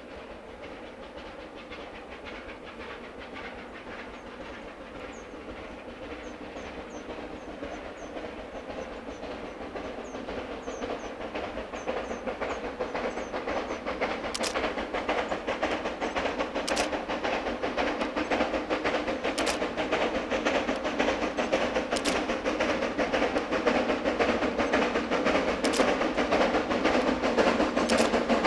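Chinese C2 narrow-gauge 0-8-0 steam locomotive approaching with its train, the running sound growing steadily louder, with sharp clicks every couple of seconds in the second half.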